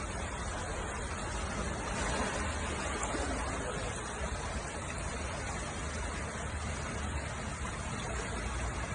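Steady road and wind noise of a moving vehicle: a constant rushing hiss over a low rumble, with no distinct events.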